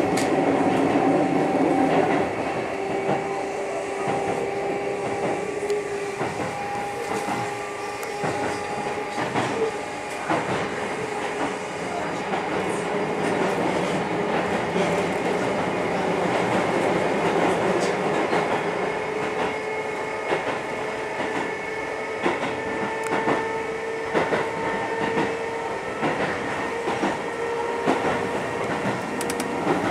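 Keio 6000 series electric commuter train running, heard from inside the passenger car: a steady rumble with humming tones that drift slowly in pitch, and many irregular clicks over the rails.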